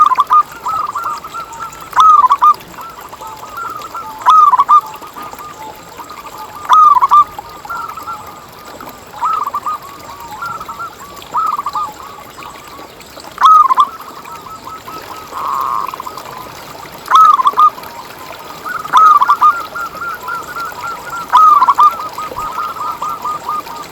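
Zebra dove cooing: rapid bubbling phrases of soft coos, with a louder phrase about every two seconds and softer trilling between.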